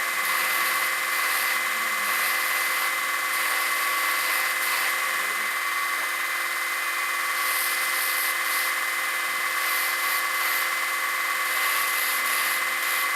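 A power tool running steadily with a high, even whine over a hiss.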